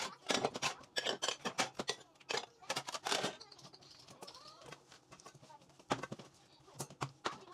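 Dishes and cutlery clinking and knocking in quick succession, the clatter of kitchen work, easing off about halfway through with a few more knocks near the end.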